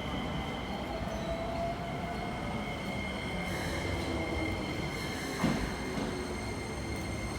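Keikyu Main Line train running at a station platform, with steady thin whines over rumbling noise and a single knock about five and a half seconds in.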